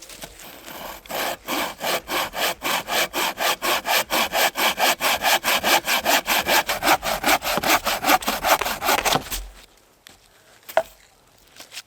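A hand saw cutting through wood in quick, even back-and-forth strokes, stopping about nine seconds in; a single sharp click follows about a second later.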